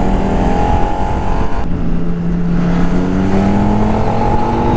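Ducati Multistrada 1200 S's 1198 cc L-twin engine pulling hard under acceleration, pitch rising, a brief break for a gear change about a second and a half in, then rising again, with wind rush over the microphone. The engine has a seized exhaust valve that stops it revving past about 7,000 rpm.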